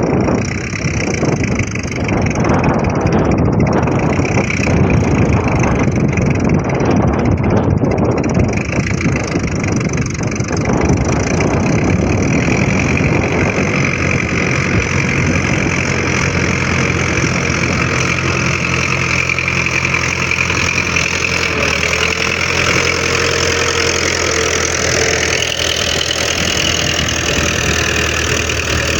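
Tractor engine running continuously, settling into a steadier note about halfway through, with a steady high whine above it.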